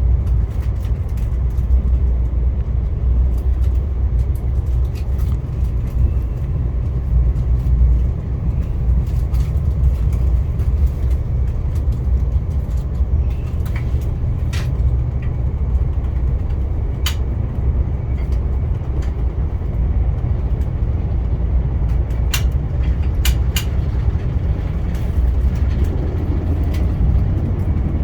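Moving Via Rail passenger train, heard from on board: a steady low rumble of the running train, with a handful of sharp clicks and ticks partway through.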